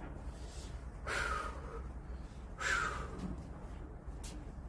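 A man breathing hard from the exertion of chopping wood: three heavy, breathy exhalations, roughly a second or so apart.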